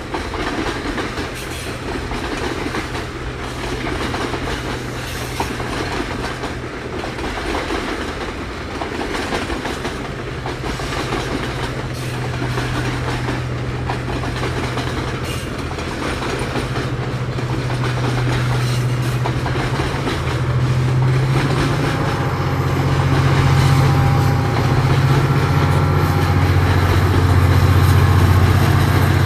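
Loaded freight wagons rolling past with the clickety-clack of wheels over the rail joints. In the last third a diesel locomotive's low engine hum grows steadily louder, the GT22 helper locomotive at the tail of the train coming up.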